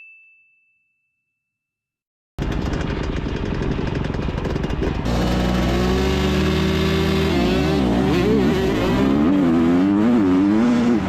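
A single bell-like ding dies away, then after about two seconds of silence a dirt bike engine comes in, louder from about halfway, its pitch rising and falling repeatedly as the throttle is worked.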